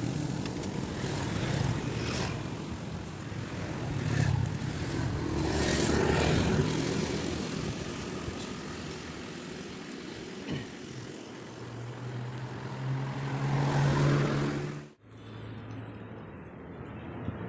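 Road traffic: motor vehicle engines running and passing, with a steady rush of noise. One engine swells up near the end, then the sound breaks off suddenly and a quieter engine hum carries on.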